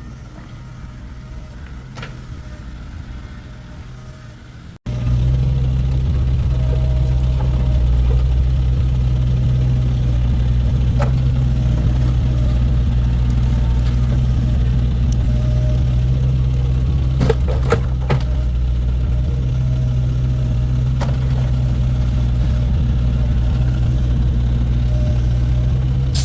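Engine idling steadily: a quieter low hum for about five seconds, then abruptly a louder, even drone, with a few light knocks near the middle.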